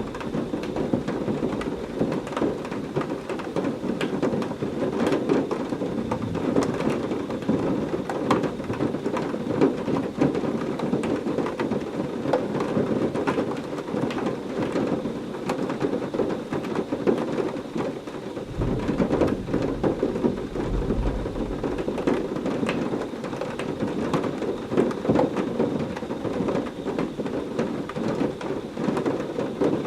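Heavy rain pouring steadily, with crackling drops striking a surface. Thunder rumbles low about two-thirds of the way through.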